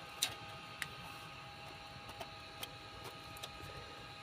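A few light, sharp clicks and taps of small parts being handled and set down, over a faint steady hum.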